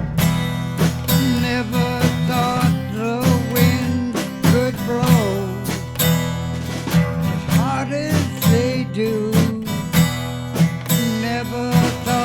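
Instrumental passage of a band song: a guitar plays a lead line with bent notes over bass and a steady drum beat.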